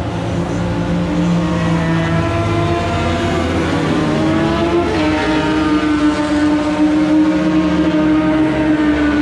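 Several sport motorcycle engines running hard on a race track. Their pitch climbs, then drops sharply about five seconds in.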